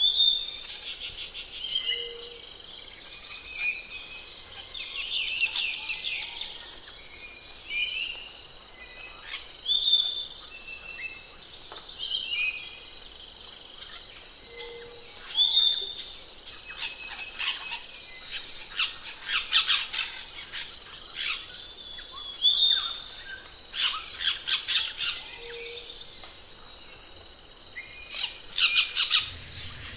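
Birds chirping and calling outdoors, with short high chirps and bursts of rapid trills recurring every few seconds over a steady outdoor background.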